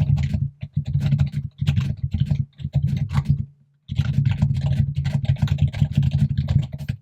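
Fast, continuous typing on a computer keyboard, a dense run of key clicks with a deep thud under each stroke. It comes in two runs, with a short pause about three and a half seconds in.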